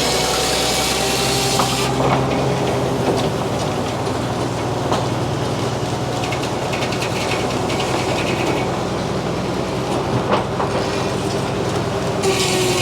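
Frick sawmill running through a poplar log: a steady engine-driven drone with a spinning-blade tone and a few sharp clacks from the carriage. A high hiss drops away about two seconds in and comes back near the end.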